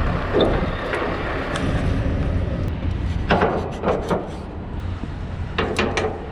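A Scania truck engine idling steadily, with several sharp metallic knocks and clanks over it, one near the start and small clusters about three and a half and six seconds in.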